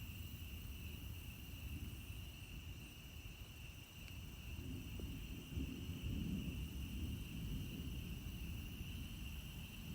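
Steady, high-pitched chorus of frogs singing, with a low rumbling underneath that swells a little just past halfway.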